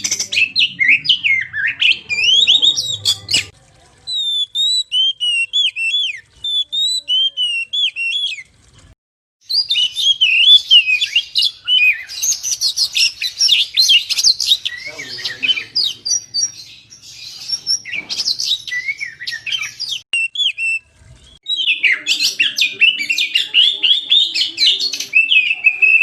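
Oriental magpie-robin (kacer) singing a loud, fast, varied whistled song in long bursts, broken by a few short pauses.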